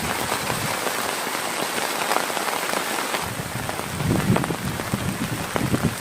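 Heavy rain falling steadily with a dense hiss. A little after three seconds in, the hiss thins and lower, uneven thuds of heavier drops come through.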